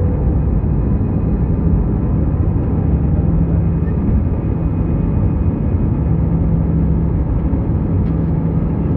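Air India airliner taking off, its jet engines and airframe making a loud, steady rumble with a steady low hum running through it.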